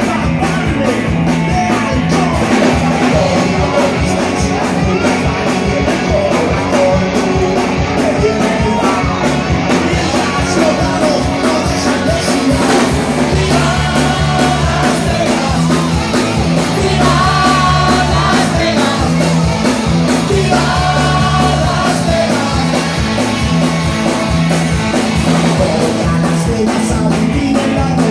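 A live rock and roll band playing loudly with guitar and a steady beat, with a singer, recorded on a phone's microphone.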